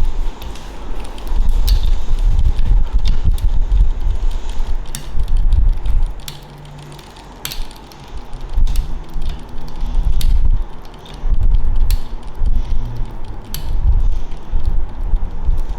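Brompton folding bicycle's drivetrain clicking irregularly in its lowest cassette gear, a fault in that gear. A heavy low rumble runs underneath.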